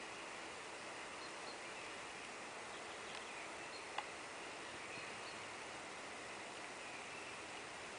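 Quiet outdoor ambience: a steady hiss with faint, short, high bird chirps scattered through it, and a single sharp click about halfway through.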